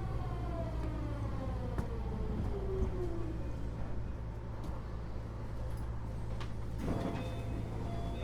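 Keio 8000-series train's Hitachi GTO-VVVF inverter and traction motors whining in several parallel tones that fall in pitch as the train slows, over a steady low hum. A brief noisy rush comes about seven seconds in.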